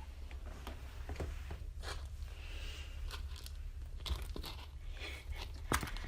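Irregular crunching with scattered sharp clicks over a steady low hum.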